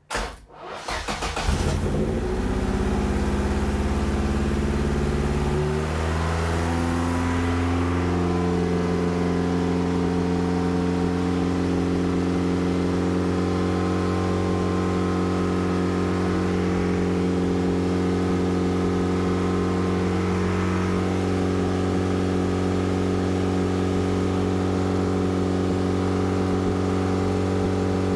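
Vauxhall 1.6 four-cylinder engine in a Classic Mini firing up about a second in on a newly fitted Speeduino standalone ECU. Its revs climb over the first several seconds and then hold a steady, very fast idle. The owner traces the fast idle to air leaks at his welds on the intake plenum.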